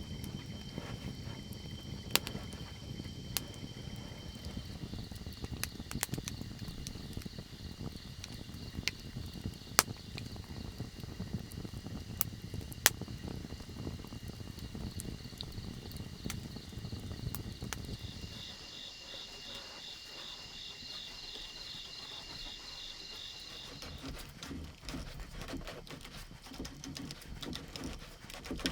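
Insects chirring steadily in the forest, with a fast pulsing trill joining for several seconds past the middle. Scattered sharp clicks and knocks sound over a low rumble that fades out a little past halfway.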